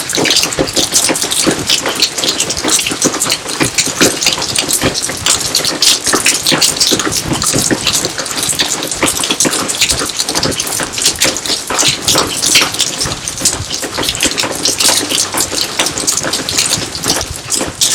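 Steady rain, a dense patter of countless drops splashing.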